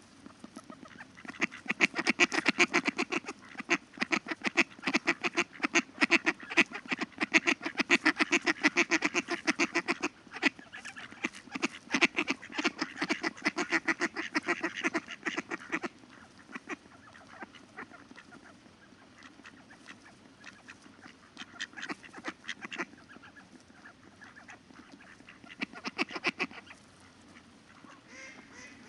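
Ducks calling in fast runs of quacks and chatter, dense through the first half, then a few shorter bursts later.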